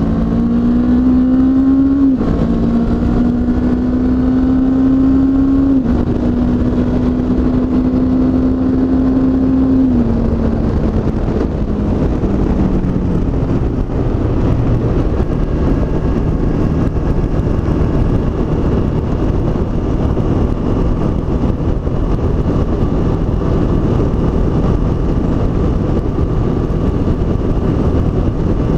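Honda CB500X's parallel-twin engine accelerating hard through the gears, its pitch rising and dropping at upshifts about 2, 6 and 10 seconds in. It then eases off and settles to a steady cruise, with heavy wind noise on the helmet microphone.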